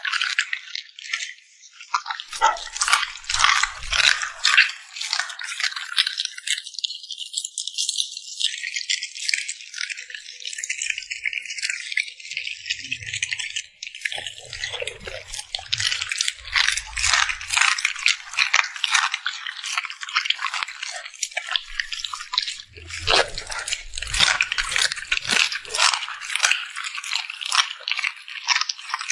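A dog crunching and chewing food: a dense run of crisp crunches and cracks, with a few duller knocks from the jaws now and then.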